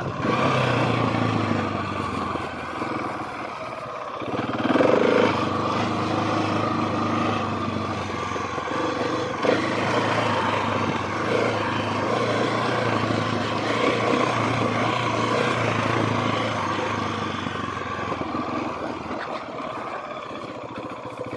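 Husqvarna 701 Supermoto's single-cylinder engine running as the bike is ridden over dirt, with tyre and wind noise. The engine note gets louder about four and a half seconds in, then holds fairly steady.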